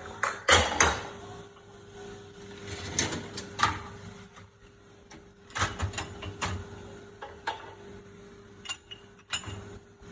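Clattering and knocking of dishes and a dishwasher rack being handled, with sliding and bumping strokes at irregular intervals, over a steady faint hum.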